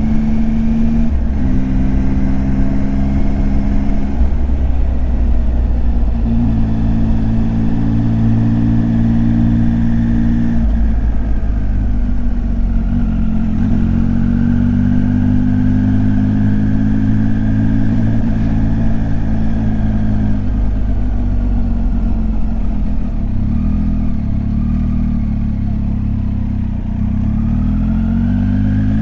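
Triumph Tiger 800 XCX's three-cylinder engine running on the road. The note holds steady for stretches, shifts up and down in pitch several times, and climbs near the end as the revs rise.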